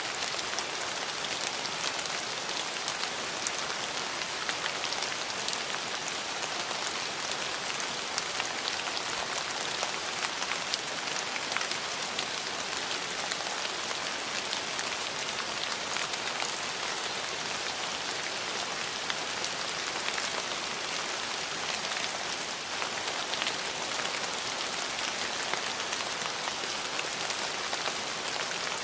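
Steady rain falling, with a dense hiss and many small drop clicks scattered through it.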